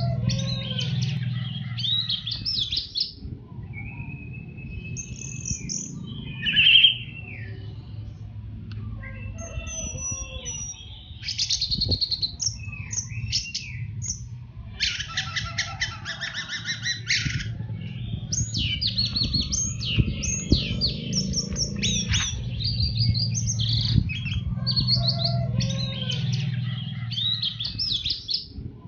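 Orange-headed thrush singing a long, rambling run of varied phrases, quick trills and whistled notes, the continuous 'teler' song. A steady low hum runs underneath.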